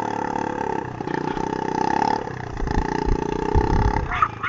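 A steady droning hum with a low, fast, even pulse and a held mid-pitched tone, like a large engine running. Short chirps come in near the end.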